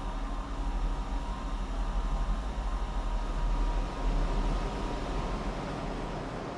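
Steady low machinery hum with a haze of noise and faint steady tones: car assembly plant machinery running. The deep hum drops away at the very end.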